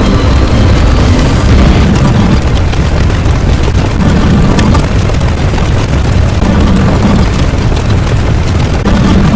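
Loud, continuous deep rumbling sound effect, blast-like, with a few faint sharp crackles, one about four and a half seconds in.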